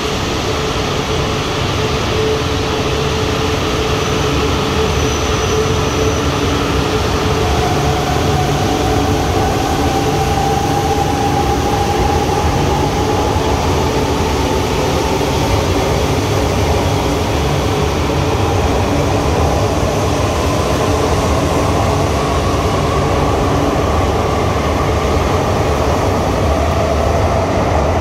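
E4 series MAX double-decker Shinkansen pulling away from the platform. Its steady running noise builds as it speeds up, with a whine that rises slowly in pitch as it gains speed.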